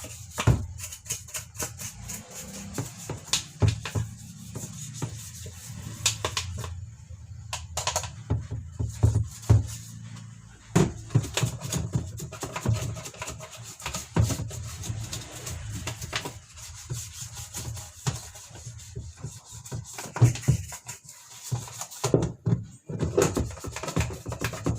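Brush scrubbing and scraping on the plastic pulsator of a washing machine to clear dirt from its small water holes, in quick irregular strokes with a few knocks.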